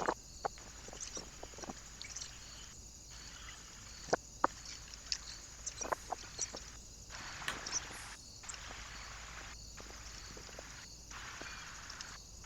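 Birds at a feeder: scattered light taps and clicks with a few brief high chirps, over the steady hiss of a trail camera's microphone.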